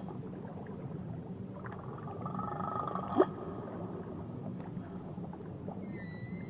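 Whale calls over a steady underwater rumble: a drawn-out moan, then a sharp upward-sweeping call about three seconds in, and a high whistle near the end.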